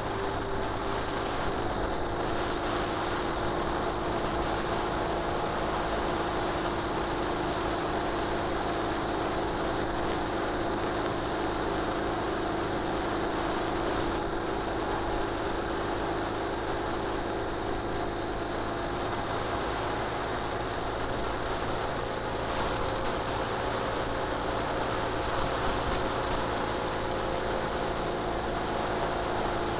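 Ural Retro sidecar motorcycle's air-cooled flat-twin engine running steadily at cruising speed, over a constant rush of wind and road noise.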